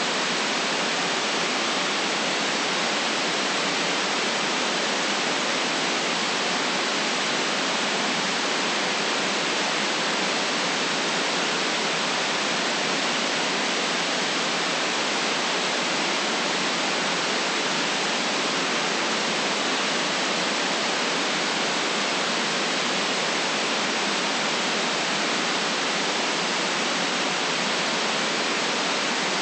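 Steady generated white noise for sleep: an even, unchanging hiss with no deep bass and no top highs.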